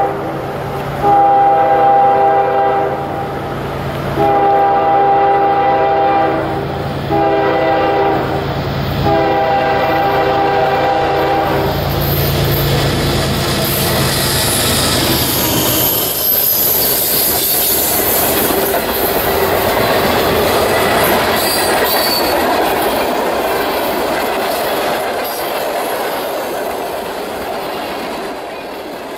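CSX freight train's GE diesel locomotive sounding its multi-note horn in four blasts, long, long, short, long: the grade-crossing signal. About twelve seconds in the locomotive passes close by with a loud rush of engine and wheel noise. The freight cars then roll past with clickety-clack and some wheel squeal, fading a little near the end.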